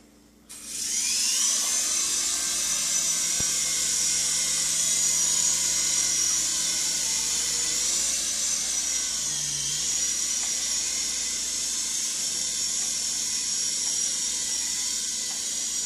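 Infrared remote-control toy helicopter's small electric rotor motors spinning up about half a second in, then a steady high-pitched whine as it flies.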